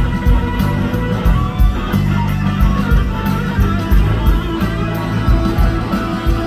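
A live blues-rock band playing an instrumental passage: electric guitar over bass and drums, with a steady cymbal beat ticking a few times a second.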